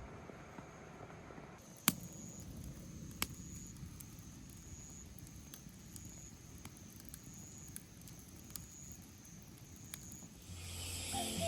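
Quiet outdoor background with a faint high chirp repeating every half second or so, and a few sharp clicks, the loudest about two seconds in; music starts right at the end.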